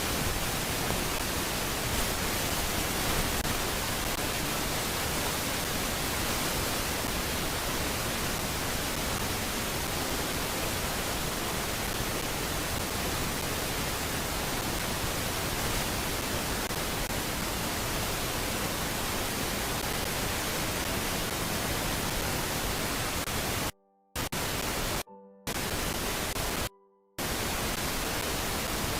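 Steady full-range static hiss from a nest cam's audio feed. It cuts out suddenly three times near the end.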